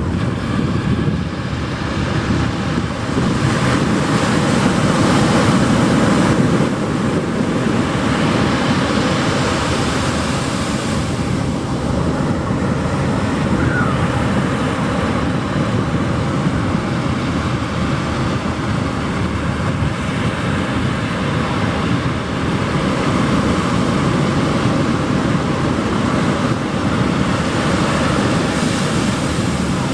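Ocean surf breaking and washing onto a beach: a steady rushing noise that swells louder as waves come in, a few seconds in and again near the end.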